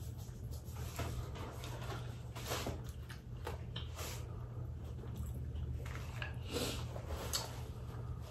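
Close-up eating sounds of crab being chewed, with scattered small cracks, smacks and crinkles from the shell and plastic gloves, over a steady low hum.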